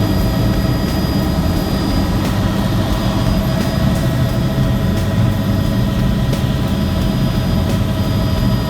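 Helicopter in flight: a steady, loud mix of engine whine and rotor noise.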